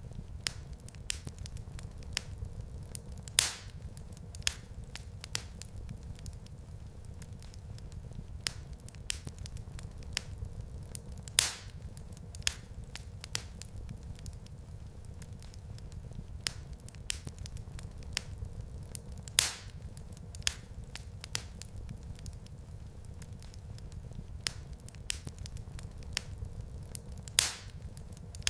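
Wood fire in a fireplace crackling, with many small clicks over a steady low rumble. A few louder pops recur evenly, about every eight seconds.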